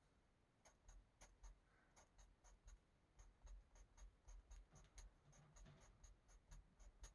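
Faint scratching of an Ohuhu marker tip on coloring-book paper, drawn in quick short strokes about four a second to fill a section with X's.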